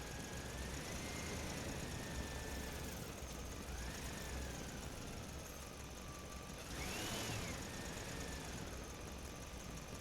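Small electric motor of a toy vehicle whining as it runs, its pitch drifting up and down, with a louder rise and fall about two-thirds of the way through.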